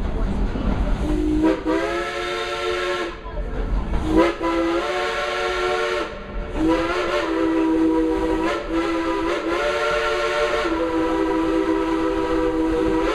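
Dollywood Express steam locomotive's chime whistle blowing three long blasts. The last is held for about six seconds, its tone shifting as it goes. Underneath is the steady hiss and rumble of the running train.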